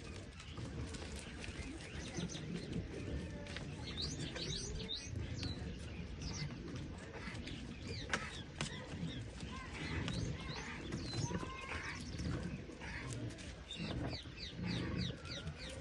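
Small birds chirping in quick runs of short, high notes, clustered about four seconds in and again near the end, over a steady low rumble. One sharp click comes about halfway through.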